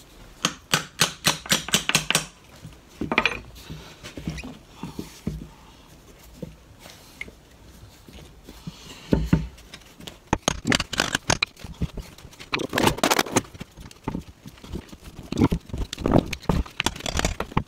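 Quick runs of hammer taps on a stuck Delco starter-generator, knocking the housing to break the end caps loose. The taps come in bursts of several a second, with quieter pauses between.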